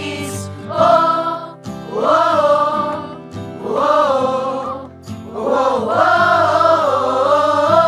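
Song with backing music: voices sing four drawn-out phrases with vibrato, the last one held longest.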